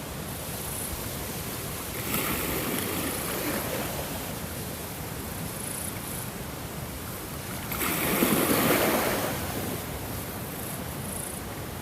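Ocean waves washing ashore: a steady surf hiss with two waves swelling and breaking, the second, about eight seconds in, the louder.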